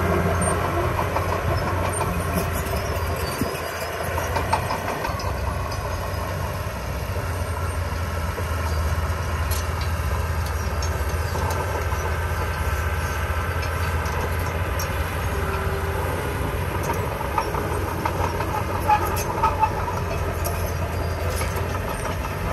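Heavy diesel earthmoving machinery running steadily with a deep engine hum, and light metallic clicks and clanks scattered throughout.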